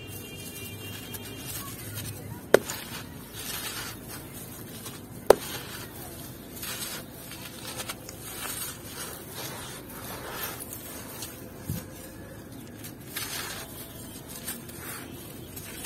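Crunchy yellow textured blocks being crumbled and crushed by hand, a run of short dry crunching and scraping strokes. There are sharp snaps about two and a half seconds in and again about five seconds in, and a smaller one near twelve seconds.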